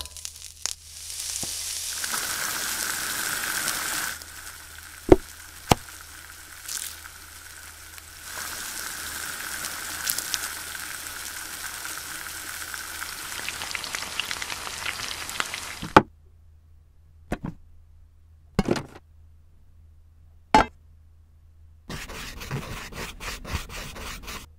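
Frying sizzle in a pan, a steady hiss broken by two sharp clicks about five seconds in, cutting off suddenly about two-thirds of the way through. A few separate clicks follow, then a quick run of marker-on-paper scribbling strokes near the end.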